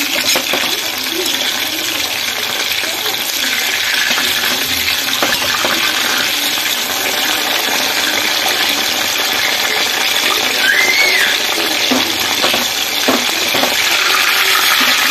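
Marinated chicken pieces frying in hot oil in a pan: a steady sizzle with a few sharp pops.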